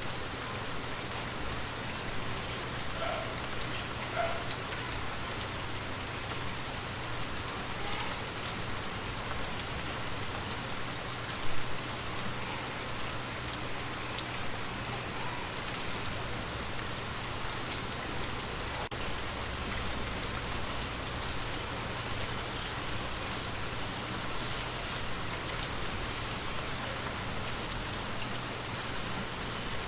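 Steady rain falling on a surface, with scattered individual drips and one louder tap about eleven seconds in.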